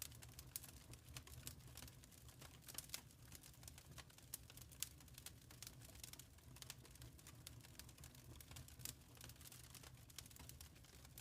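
Wood fire crackling in a fireplace: irregular sharp pops and snaps, a few louder than the rest, over a faint low rumble.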